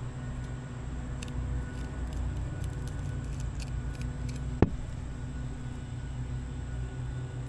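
A motor engine running steadily at a constant pitch, with faint ticks and one sharp click a little over halfway through.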